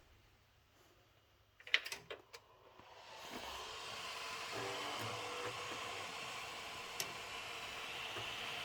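Desktop PC powering up: a few sharp clicks, then its fans spin up into a steady whir about three seconds in. Single clicks come through the whir about two seconds apart, the regular clicking that the owner suspects is coming from either the 1200 W power supply or the RTX 4090 graphics card.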